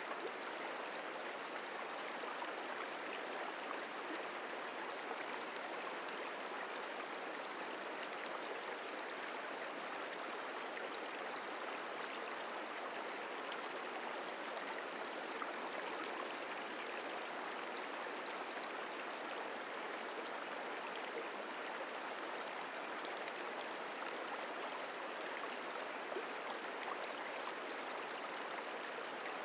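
The Merced River flowing: a steady, even rush of water.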